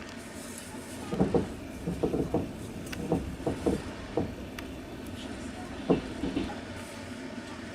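Passenger train wheels clacking over rail joints: a steady running rumble broken by irregular clusters of sharp knocks, heard from inside the carriage.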